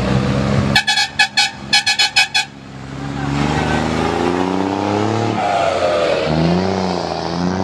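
Truck horn sounded in a quick series of about eight short blasts, then the truck's engine revving up slowly and dropping back, with a second shorter rev near the end.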